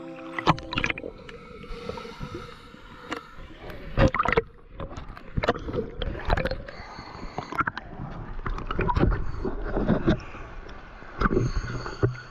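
Water sloshing and splashing around an action camera as scuba divers surface beside a dive boat, with irregular splashes and gurgling.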